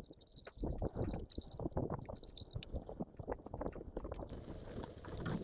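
Irregular wet squishing and small splashes in water, then a steady rush of falling or flowing water from about four seconds in.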